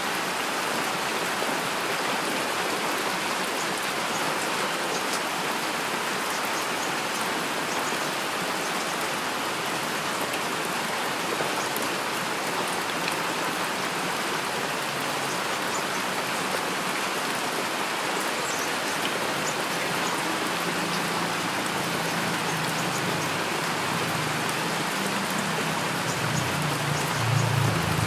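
Steady heavy rain falling without let-up. A low rumble swells in underneath near the end.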